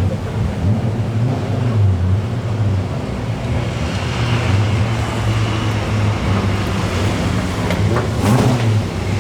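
Classic DTM touring car engines running at low revs, a steady low rumble, with a brief louder rise about eight seconds in.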